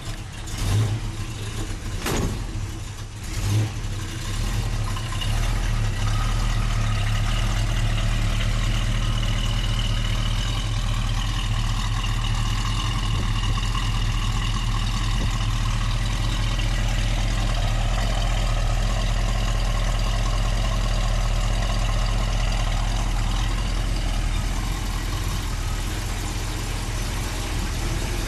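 Classic Ford Mustang's engine idling steadily. There are a few knocks and some unevenness in its note during the first few seconds, after which it settles into an even idle.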